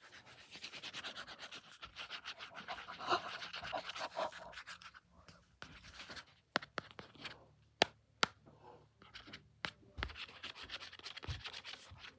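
Pen scribbling on a Post-it note pad in quick scratchy strokes. Midway it gives way to a few sharp clicks or taps, and the scribbling comes back near the end.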